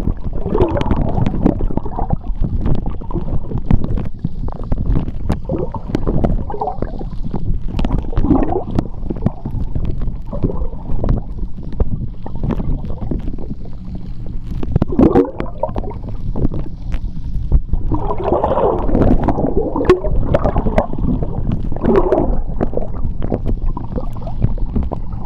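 Underwater sea sound: a steady low rumble of moving water with irregular bubbling and gurgling bursts and many scattered sharp clicks, the heaviest bubbling in the last third.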